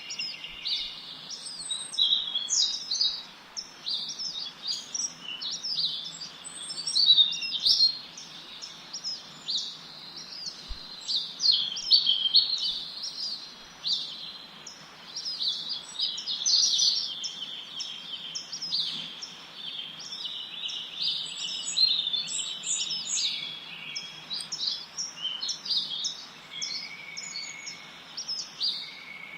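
Many small birds chirping and singing at once, a dense chorus of quick, high, overlapping chirps and trills, over a faint steady hiss.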